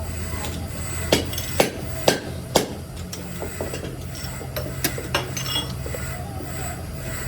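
Sharp metal knocks in a workshop, four about half a second apart, then a few lighter clicks, over a steady low machine hum.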